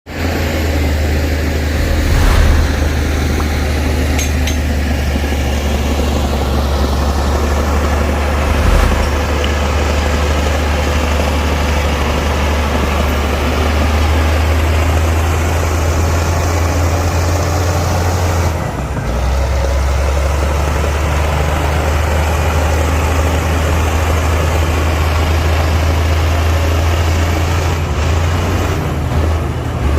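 Heavy diesel earthmoving machinery engine running steadily at a low drone, with brief knocks about two seconds in and again near nine seconds.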